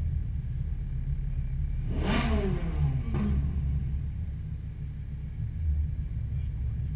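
A car engine revs once, a quick blip about two seconds in whose pitch jumps up and slides back down within about a second. A steady low engine rumble runs underneath.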